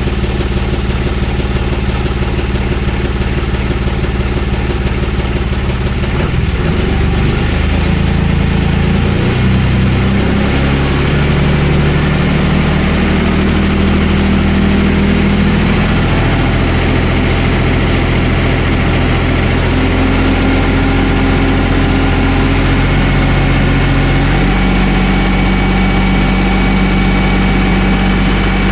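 John Deere 5305 tractor's three-cylinder diesel engine running steadily, its speed changing about seven to ten seconds in and again about twenty-four seconds in.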